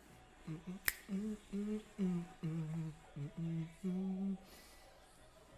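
A man humming a short tune of about eight notes, with one sharp click, like a finger snap, about a second in.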